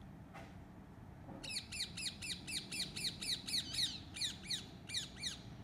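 A bird outside calling loudly in a fast series of sharp, falling notes, about four or five a second, starting about a second and a half in and keeping on without a break.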